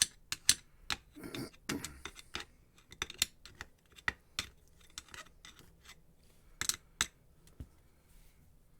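Irregular light metallic clicks and short scrapes as grease is worked onto the gear inside an opened angle grinder gearbox. The clicks come thickly at first, then more sparsely, with a couple of sharper ones about two-thirds of the way through.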